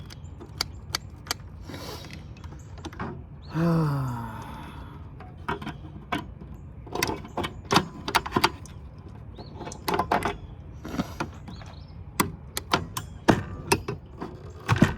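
Irregular metallic clicks, clinks and knocks from hand tools and metal parts being handled during the teardown of a power supply. There is a brief sound that falls in pitch about four seconds in.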